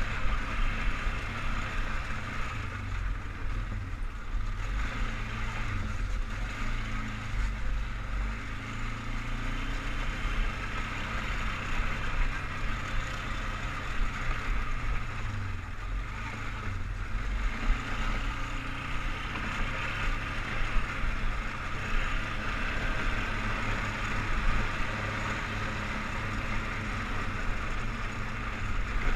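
Engine of a 2003 Polaris Sportsman 500 HO 6x6 ATV running steadily while riding: a low single-cylinder rumble with a steady hiss above it.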